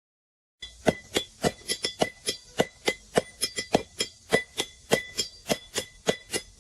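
Blacksmith's hammer striking iron on an anvil in quick succession, about three to four blows a second, each blow with a metallic ring. The hammering starts abruptly about half a second in.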